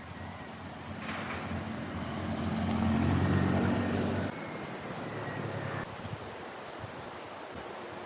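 A motor vehicle's engine hum over wind noise. It swells to its loudest about three seconds in, then drops away abruptly a little after four seconds.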